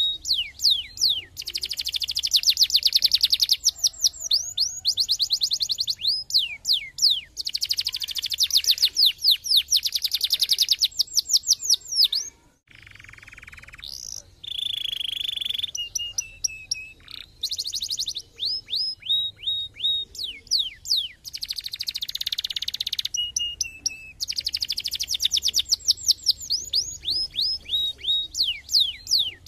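Domestic canary singing: fast trills of rapidly repeated falling notes alternating with dense buzzing rolls and a few held whistled notes, with a brief break about twelve seconds in.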